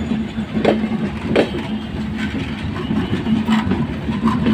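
Bangladesh Railway Intercity passenger coaches rolling past, their wheels clacking over rail joints in a few sharp knocks spaced unevenly, over a steady low rumble and hum.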